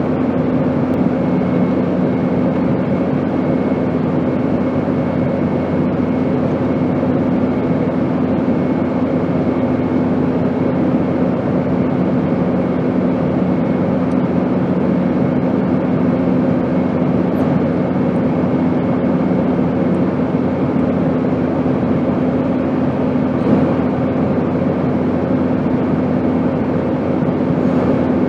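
Airplane engine drone: a steady rushing noise with several constant hum tones layered in. The lowest hum fades out about twenty seconds in.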